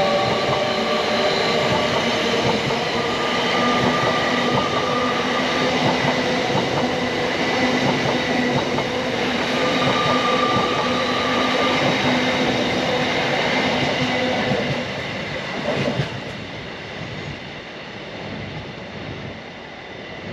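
Passenger train moving at close range, a steady rumble of wheels on rail with several high steady tones coming and going over it. It grows quieter about fifteen seconds in, with a single sharp knock just after.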